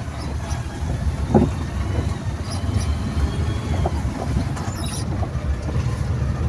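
A moving truck's engine and road noise: a steady low rumble, with a few brief knocks and rattles.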